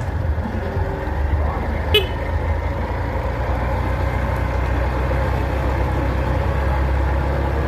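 Steady low rumble of a motor vehicle's engine running close by, with one short sharp sound about two seconds in.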